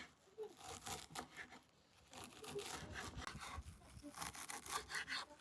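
Irregular rustling, rubbing and scraping of something being handled by hand, with short clicks; it is sparse for the first two seconds and busier after that.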